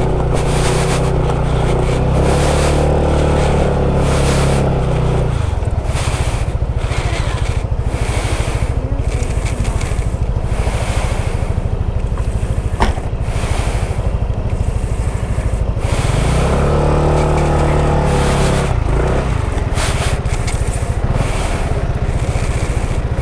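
Motorcycle engine running as it is ridden, its pitch rising and falling twice as the throttle changes, under heavy wind and road noise.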